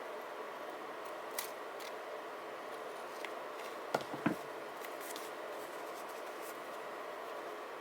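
Light handling of paper journaling supplies on a desk: a few scattered soft clicks, then two sharp taps close together about four seconds in, over a steady background hum.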